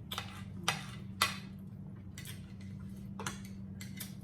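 Cutlery tapping and scraping on plates during a meal: scattered light clicks, the loudest about a second in, over a steady low hum.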